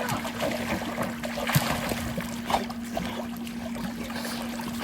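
Water splashing and lapping as Labradors swim, over a steady low hum. A sharp knock about one and a half seconds in.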